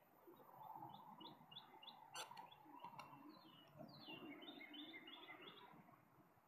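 Faint birdsong: a small bird sings two phrases of short, quick falling notes, several a second, with a couple of soft clicks between them.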